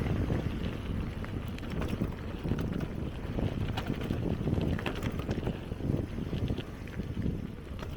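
Bicycle riding over a dirt and gravel forest trail: a steady low rumble of wind buffeting the microphone, with tyre crunch and small rattling clicks scattered throughout.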